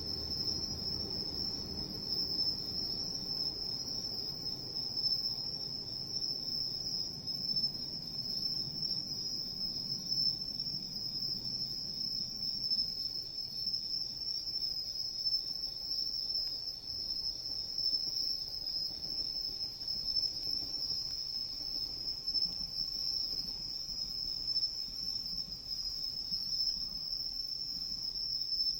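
Crickets chirping in a steady high-pitched chorus. Beneath it is the low, uneven sound of a wood campfire, stronger in the first half.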